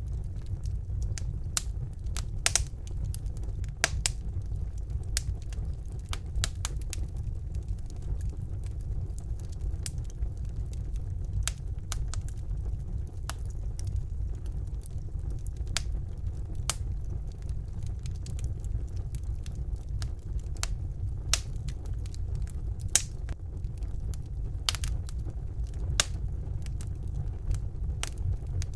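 Wood fire burning in a fireplace: a steady low rumble of the flames with sharp, irregular crackles and pops of the burning logs, several every second.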